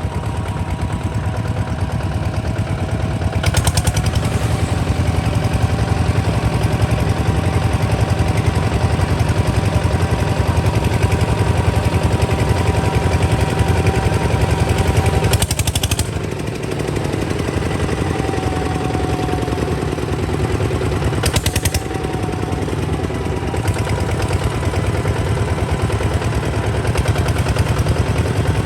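Kubota ZT155 DI single-cylinder diesel engine running with a fast, even chugging beat. It eases briefly about sixteen seconds in, then picks up again.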